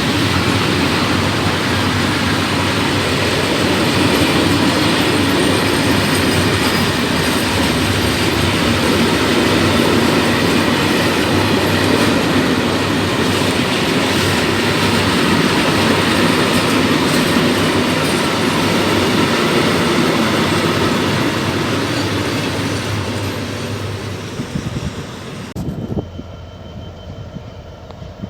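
A freight train of open coal wagons rolling past at close range: a steady, loud rumble of wheels on the rails with some wheel squeal. About 25 seconds in it cuts off abruptly to a much quieter background.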